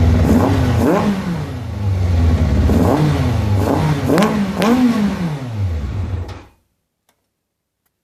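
Yamaha FZR 600 inline-four engine with an open exhaust, idling between several quick throttle blips that rise and fall in pitch, its carburettors freshly cleaned and adjusted. The sound cuts off abruptly about six and a half seconds in.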